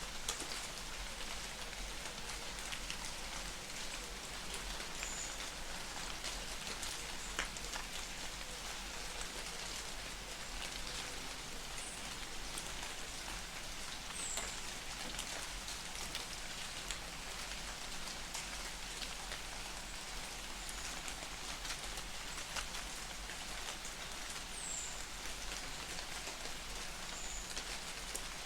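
Light rain falling steadily in a forest, a dense patter of raindrops with scattered sharper drop clicks. A few short, high bird chirps come now and then.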